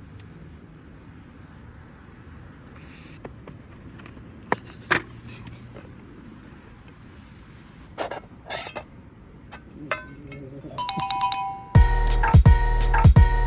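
Low background hiss with a few scattered clicks and knocks, then a short bell-like chime near the end, followed at once by background music with a steady beat.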